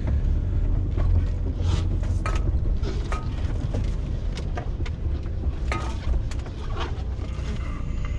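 Semi truck's diesel engine running low in the cab, with irregular clicks and creaks over it as the truck is parked.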